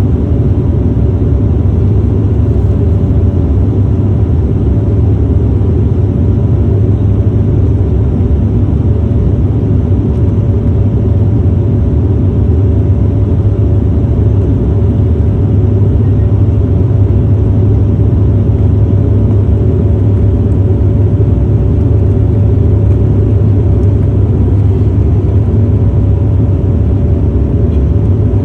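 Steady, loud drone of an airliner cabin in flight: engine and airflow noise, a deep hum with faint steady tones above it.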